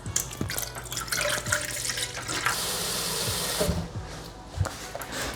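Liquid pouring into a measuring cup, a steady splashing stream that gets louder for about a second and then stops suddenly.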